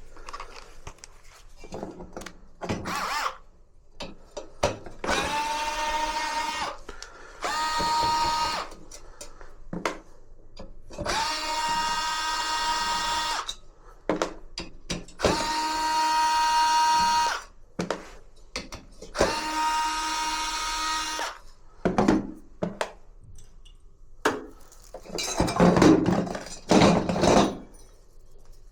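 Power drill-driver run in five short bursts of about two seconds each, each spinning up to a steady whine, with clicks and knocks between them. Near the end comes a louder scraping, rustling noise lasting about three seconds.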